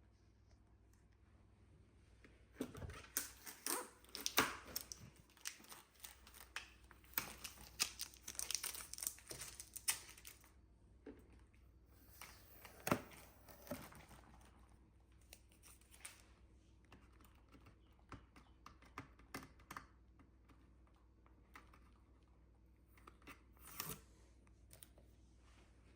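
Polythene wrapping crinkling and rustling as it is pulled off and handled, in irregular bursts that are busiest in the first half and sparser later.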